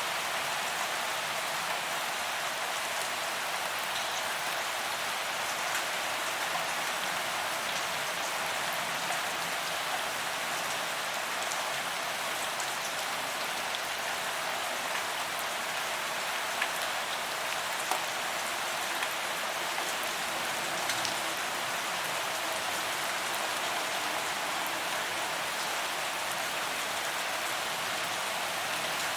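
Steady rain falling on a paved walkway, an even hiss of drops hitting the pavement with a few sharper individual drop ticks now and then.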